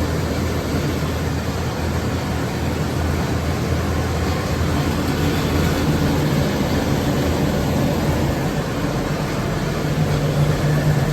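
Large oil-fired boiler burner firing at high input, about 7 to 8 gallons of oil an hour, with a steady combustion rumble and blower hum.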